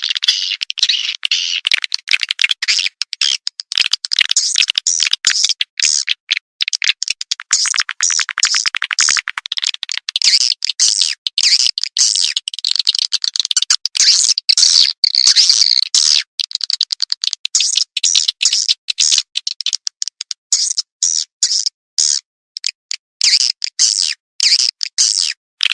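Swiftlet call sound (suara panggil walet): rapid high chirping and chattering twitters, with a fast buzzing trill a little before the middle. This is the lure call played to draw edible-nest swiftlets into a nesting house.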